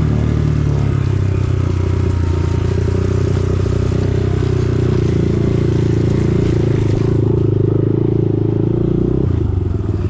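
Dirt bike engine running steadily under throttle on a trail, easing off near the end.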